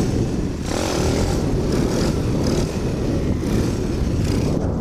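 Pit bike's small single-cylinder engine running steadily while it is ridden.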